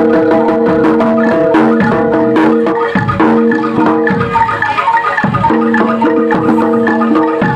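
Loud live music in a gamelan style: metal mallet instruments and drums struck in a quick rhythm over several held notes. The held notes drop out for a couple of seconds midway, leaving mostly percussion.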